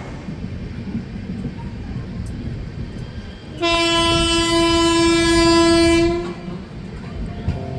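Train running with a steady low rumble. About three and a half seconds in, its horn sounds one long steady note for about two and a half seconds.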